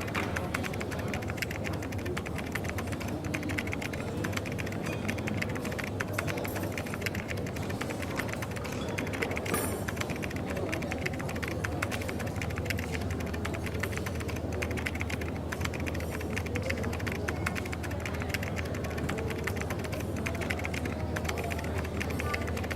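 Typing on a keyboard, a continuous run of quick key clicks, over a café's background of a steady low hum and indistinct murmur.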